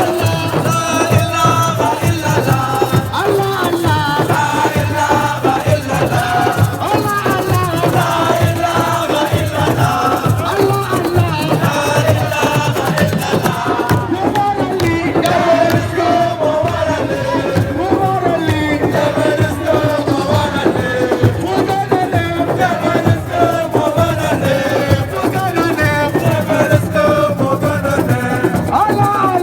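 Live music: voices singing over steady percussion, with a crowd.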